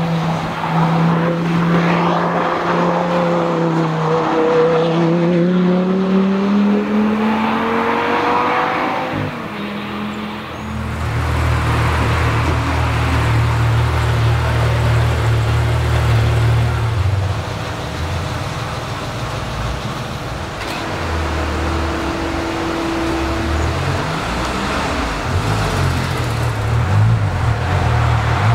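Audi R8 GT's 5.2-litre V10 passing at speed, its exhaust note dipping and then climbing for about nine seconds. After a cut, the same V10 idles with a low, steady rumble and takes a few light revs near the end.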